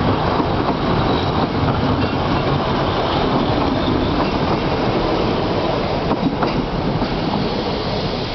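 Narrow-gauge passenger coaches rolling past as the train pulls away, their wheels making a steady noise on the rails with a few sharp clicks.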